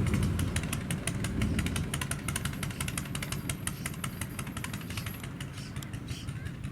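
An American car's engine rumbling and fading away after a loud pass, with a rapid run of sharp ticks over the low rumble.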